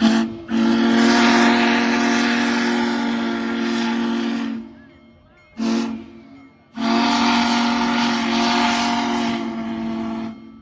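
Steam whistle of Union Pacific Big Boy 4014 blowing four blasts: short, long, short, long. It is a chord of several steady tones with heavy steam hiss.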